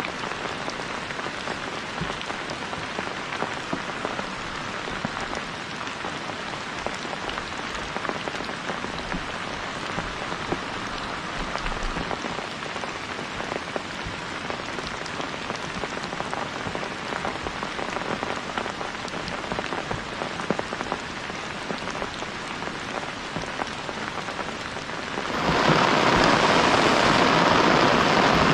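Steady heavy rain falling, with many separate drops striking close by. About three seconds before the end it abruptly becomes much louder and fuller.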